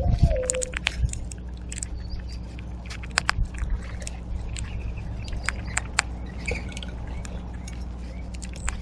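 Mourning dove cooing once in the first second, a single low note that falls in pitch, then scattered short chirps from small birds and sharp clicks over a steady low hum.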